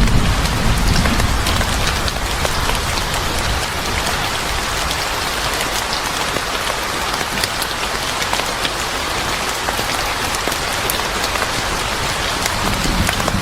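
Steady rain falling, a dense even hiss with scattered sharp ticks of individual drops. A low rumble dies away about a second in.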